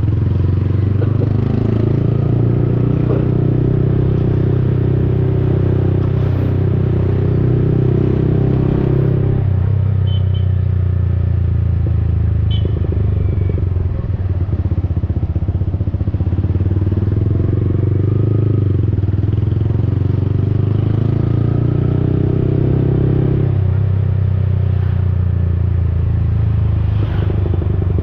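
Yamaha XSR 155's single-cylinder engine running through an aftermarket Akrapovic-replica exhaust while riding. The exhaust note eases off about a third of the way in and again near the end, then picks up each time as the throttle comes back on.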